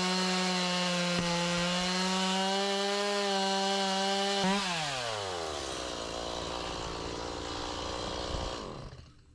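Stihl gas chainsaw running at full throttle through an oak log. About halfway through the throttle is released and the engine winds down to idle, then cuts off shortly before the end.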